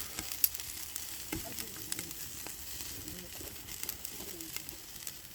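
Marinated pork belly sizzling over an oak wood fire, a steady hiss with scattered crackles and pops.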